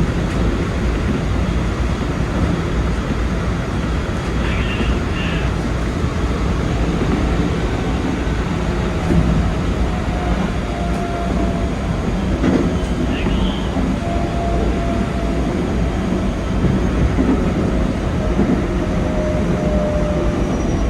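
Keikyu 2100-series electric train running along the line, heard from the driver's cab: a steady rumble of wheels on rail, with a faint motor whine from about the middle on.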